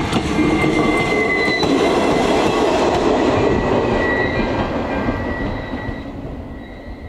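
ČD class 814 RegioNova diesel railcar passing over the crossing, its wheels rumbling on the rails with a high, steady squeal; the sound fades away near the end.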